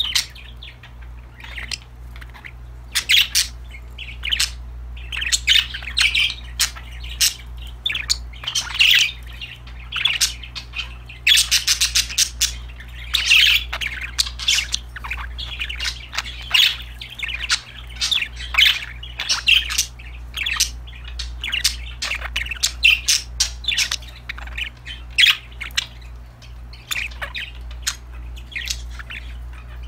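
Pet budgerigars (parakeets) chirping and chattering to each other: many short, quick calls in close succession, over a steady low hum.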